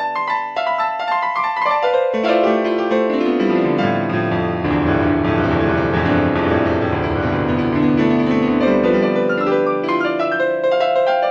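Piano music: sustained notes and chords, with a deep bass note entering about four seconds in and dropping out about nine seconds in.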